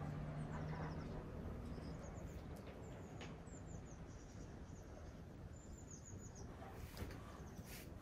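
Small birds chirping faintly: short, high, falling trills every second or so. A low steady hum fades out about halfway, and a couple of light clicks come near the end.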